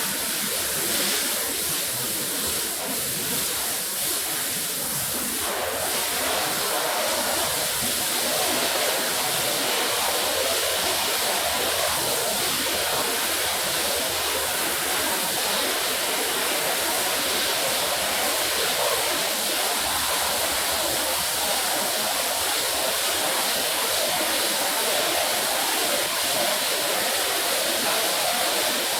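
A steady jet of water spraying onto a rug during washing, a constant rushing hiss that shifts slightly in tone about five seconds in.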